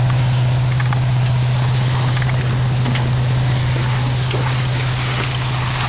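Fire engine's motor running steadily while parked, a constant low hum under a broad rushing noise.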